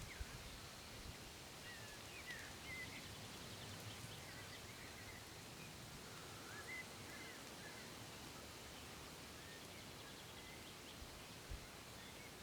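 Faint birdsong: scattered short chirps and whistles over a steady outdoor hiss.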